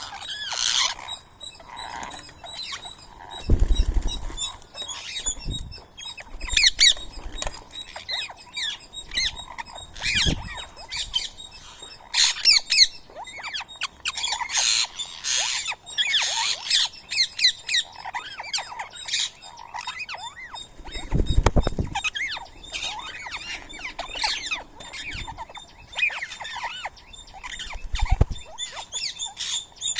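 Indian ringneck parakeets squawking and chirping in short, rapid calls, busiest about halfway through. A few dull thumps are heard now and then.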